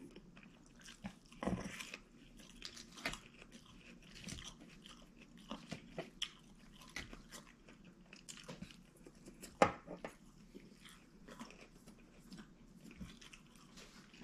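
A person chewing and biting food close to the microphone: irregular soft crunches and mouth clicks, with one sharper crunch about two-thirds of the way through.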